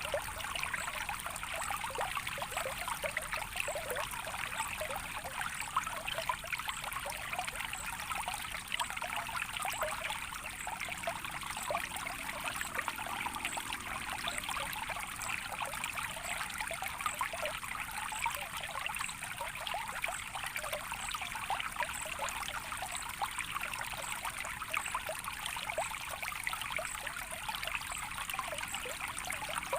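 A small stream of water trickling and splashing steadily, a dense, even babble with no change in pace.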